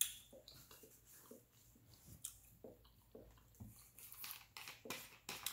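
Close-up wet chewing and mouth sounds of someone eating, made up of small scattered smacks and clicks. Near the end come a few sharper clicks and rustles as a plastic squeeze bottle of salad dressing is handled and its cap worked open.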